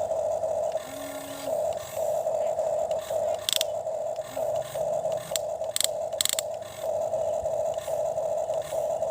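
Small electric gear motor of a toy excavator whining in short runs that start and stop every second or so, with a few sharp clicks near the middle.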